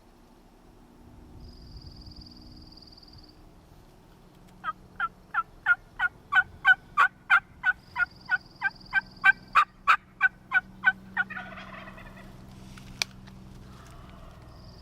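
Wild turkey yelping: a long, loud run of about twenty evenly spaced yelps, roughly three a second, building up and then easing off over about six seconds. A thin, high, steady note sounds briefly three times, and there is a single sharp click near the end.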